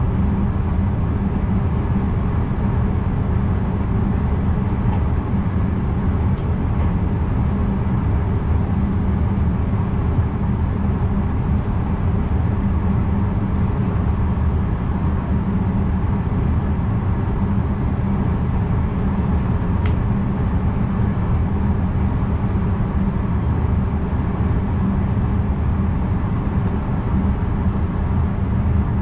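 NS VIRM double-deck electric train running, heard from the driver's cab: a steady low rumble and hum that holds even throughout.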